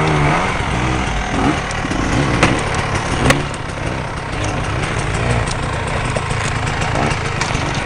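Off-road motorcycle engine running and being revved up and down unevenly, with a few sharp clicks or knocks.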